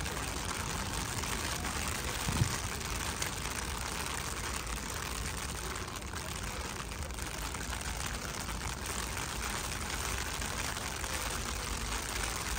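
Steady rain falling on the wet towpath and canal, an even hiss over a low rumble. A brief low thump about two and a half seconds in.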